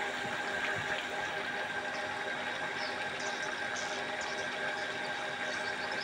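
Steady machine-like hum with a few short, high chirps of swiftlets about three to four seconds in.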